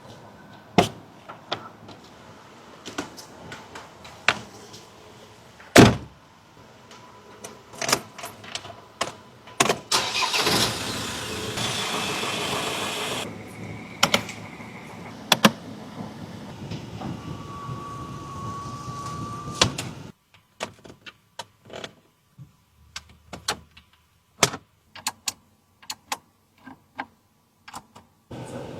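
Car sounds: a run of sharp clicks and clunks, like a door and controls being worked. About ten seconds in, an engine starts with a loud burst and runs steadily until it cuts off abruptly near twenty seconds. Scattered clicks follow.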